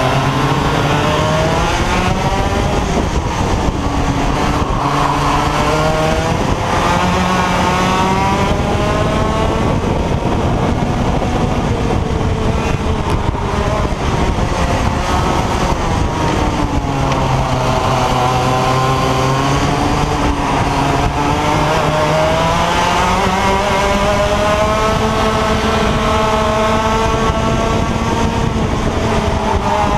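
IAME X30 125cc two-stroke kart engine running hard around a circuit, its pitch climbing and dropping again and again as it revs up and eases off.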